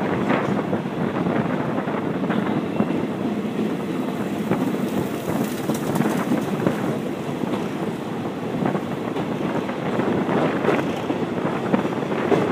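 Passenger train running along the track, heard at an open carriage window: a steady rumble of wheels and running gear, with wind buffeting the microphone. There are a few sharp wheel knocks near the end.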